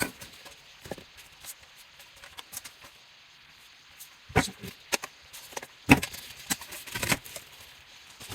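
Scattered knocks and clicks of parts being handled during installation work, with a few louder knocks about four and a half, six and seven seconds in.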